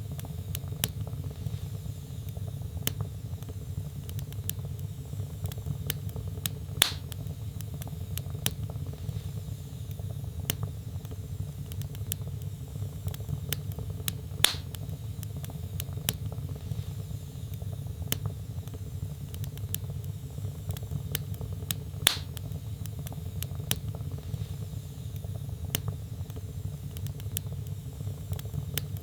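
Wood fire burning in a fireplace: a steady low rumble of flames with frequent small crackles of the burning logs and a louder pop about every seven and a half seconds.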